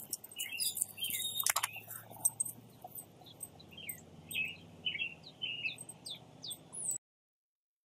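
Songbirds chirping, many short chirps and quick falling notes, with a few sharp clicks about a second and a half in; the sound cuts off suddenly about a second before the end.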